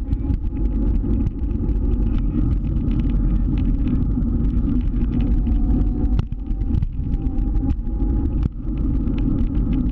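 Scooter running down the road while ridden: a loud, steady rumble with a faint whine above it. It dips briefly a few times between about six and nine seconds in.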